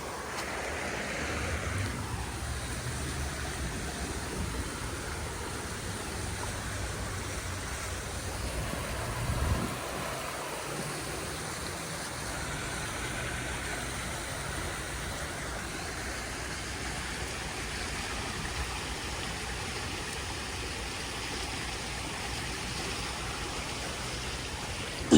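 Steady rush of flowing floodwater, with a low rumble under it and a brief louder swell about nine seconds in.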